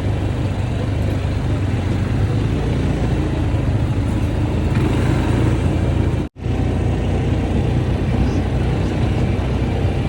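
Quad bike engines running with a steady, loud rumble. The sound cuts out for a moment about six seconds in.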